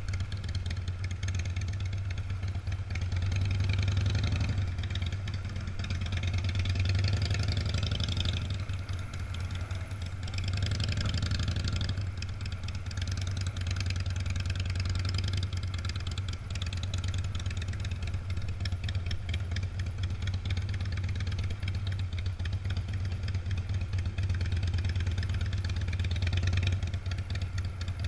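Engines of classic cars and motorcycles running in a slow procession, a steady low engine note that swells several times as vehicles go by.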